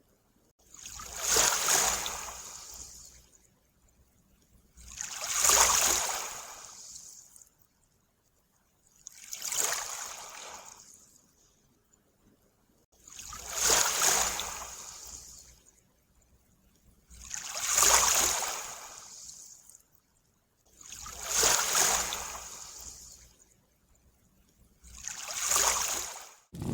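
Small waves washing in at a lake shore, one swell about every four seconds, each rising quickly and fading away, seven times.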